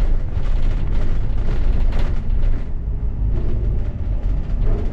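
Cabin noise of a moving double-decker bus: a steady low rumble of engine and road noise with rattling and hiss over it.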